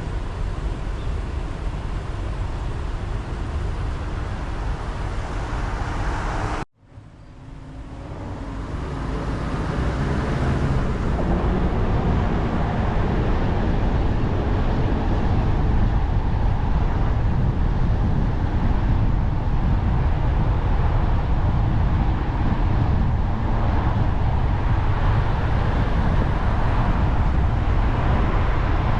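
Steady motor-vehicle rumble with heavy low-end noise. The sound cuts out abruptly about seven seconds in, then comes back up over a few seconds and stays steady.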